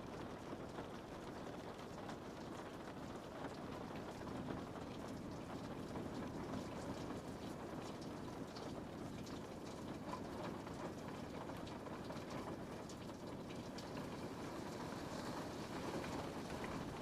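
Steady rain falling on a window pane, a continuous patter with many small drop ticks on the glass.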